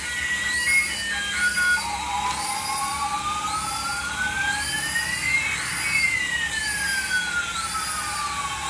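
Electronic tones: a slow siren-like sweep rising over about four seconds and falling back over the next three, over a steady tone and a high chirping pattern repeating a little faster than once a second.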